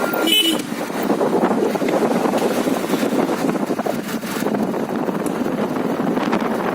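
Steady wind noise buffeting the microphone of a bike in motion, a dense rushing sound without a clear engine note.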